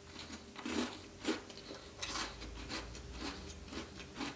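Close-up chewing of a Tim Tam Double Coat chocolate biscuit: irregular soft crunches and mouth sounds, several a second.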